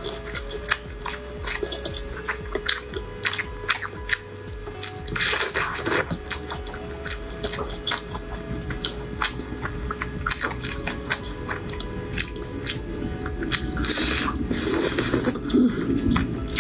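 Close-miked wet chewing and lip smacking from a person eating oily, chili-sauced dumplings: a rapid, irregular run of small wet clicks, with two longer slurps about five and fifteen seconds in. Soft background music with held notes plays underneath.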